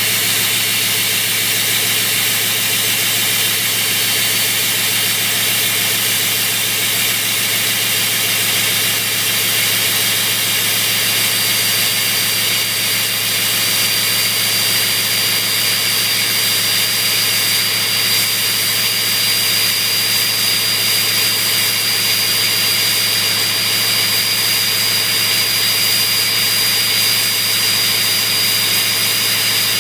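Ford 6.0 Power Stroke V8 turbo diesel with a straight-pipe exhaust, idling steadily while cold after a cold start. A high turbo whistle sits over the idle and creeps slightly up in pitch.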